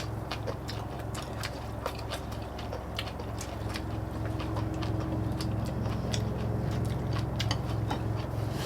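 People eating: chewing with scattered small clicks of chopsticks and utensils against dishes, over a steady low hum that pulses about three times a second.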